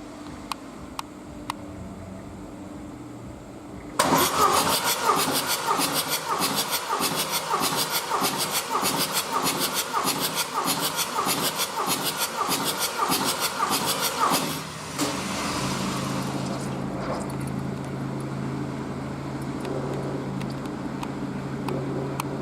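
Mercedes Sprinter 2.2 CDI four-cylinder diesel engine on a test stand, cranked by its starter for about ten seconds with an even, pulsing beat, then catching about four-fifths of the way in and settling into a steady idle. A few light clicks come before the cranking starts.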